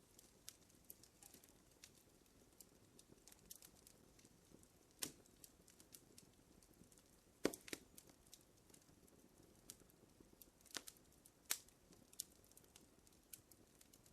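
Wood fire crackling: faint, irregular pops and snaps over a low hiss, with a few louder cracks, the loudest about halfway through.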